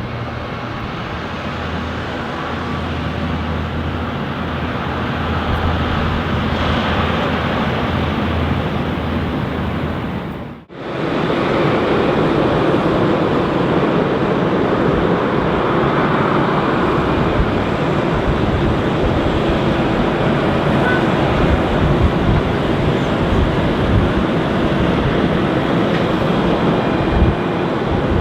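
Jet engines of an Airbus A330-302 running, a loud steady rumble and roar. The sound breaks off for a moment about a third of the way in and comes back louder and rougher.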